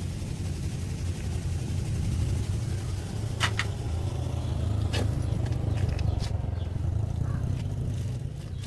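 An engine running steadily with a low rumble that grows a little louder through the middle and eases near the end. A few sharp clicks sound about three and a half and five seconds in.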